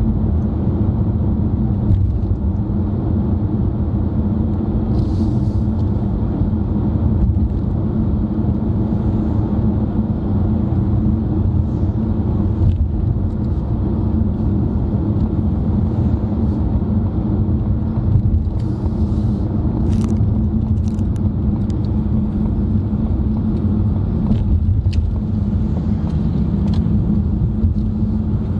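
Steady road and engine rumble of a car cruising at an even speed, heard inside the cabin, with a few faint clicks.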